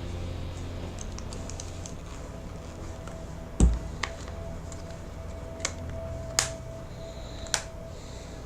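Plastic phone mount and its rubber retaining bands being handled as a phone is fitted in: a scatter of sharp clicks and taps, the loudest with a thump about three and a half seconds in.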